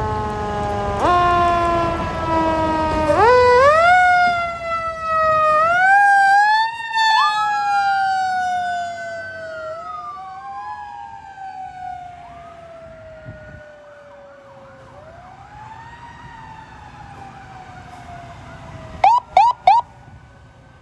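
Sirens of a fire engine and ambulances responding code 3: several wails start about a second in and rise in steps, overlap as they rise and fall, then one slowly winds down and fades. Near the end, four short, loud horn blasts.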